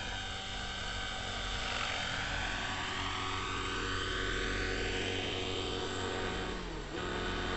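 Neo Caliber 50 radio-controlled helicopter's glow-fuel engine and rotors running in flight, the pitch of the note sweeping slowly up and down as it moves. About seven seconds in the engine note drops briefly, then picks up again.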